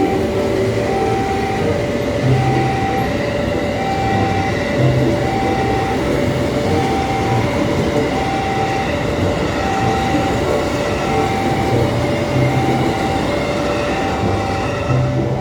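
A train passing close by: a loud, steady rumble with irregular low thuds from the wheels. Over it, a two-note warning tone alternates high and low evenly, about one note every three quarters of a second.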